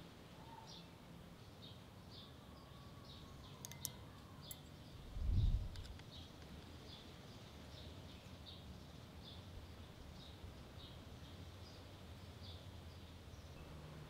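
A bird repeating a short, high chirp about twice a second, steady throughout. There is a low thump about five seconds in and a few faint clicks just before it.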